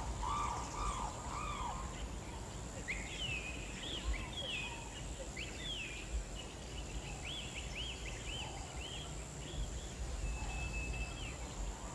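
Birds calling: a run of short, rising-and-falling chirps repeated every half second or so, over a faint outdoor background.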